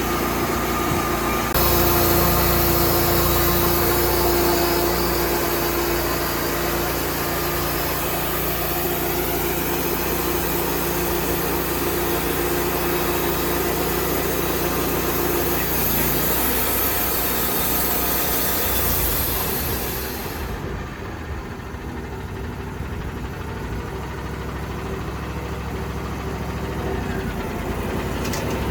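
An engine running steadily, with its sound changing abruptly a couple of times and becoming duller about two-thirds of the way through.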